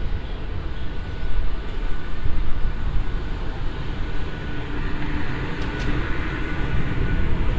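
Steady low rumble of city traffic, with a faint high hum.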